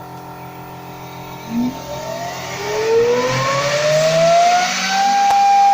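Pre-milling (jointing) unit motor of a CEHISA P-307 edge banding machine starting up: a whine rising in pitch for about two and a half seconds, then holding steady at full speed near the end.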